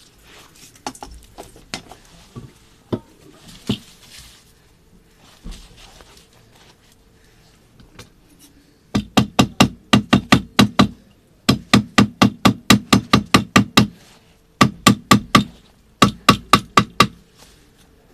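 A hammer tapping rapidly on a shoe during a sneaker repair, about five blows a second in four quick runs, after some lighter handling clicks.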